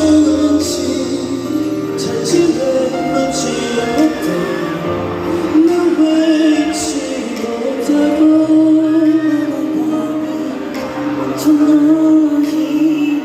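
A K-pop group's slow song performed live in concert: long held sung notes over sustained band accompaniment.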